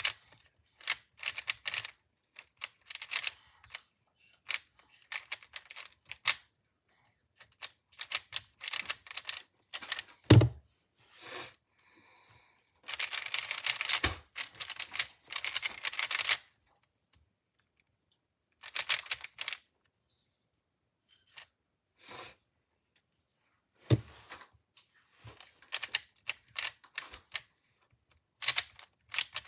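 Plastic speed cube being turned by hand: its layers click and clack in quick bursts of turns, with a longer unbroken run of turning about halfway through.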